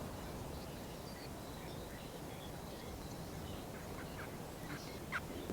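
Faint birdsong: scattered short, high calls over a low steady background, with a few brief sharp sounds near the end.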